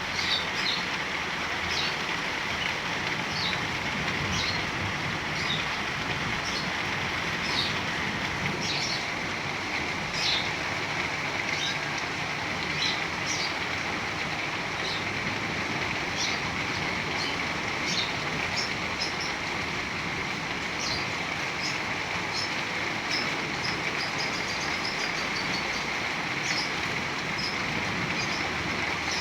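Heavy rain falling steadily, with birds chirping in short, high calls every second or two.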